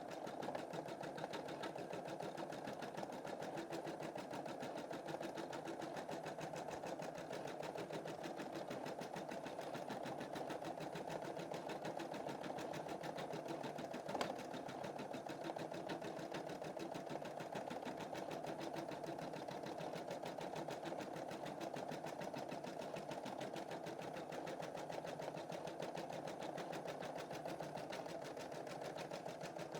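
Embroidery machine stitching a design, its needle running in a fast, even, steady rhythm. There is one sharp click about halfway through.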